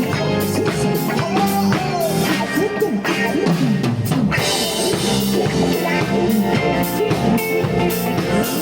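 Live band playing an instrumental passage between sung verses, with a drum kit keeping a steady beat under bass and guitar.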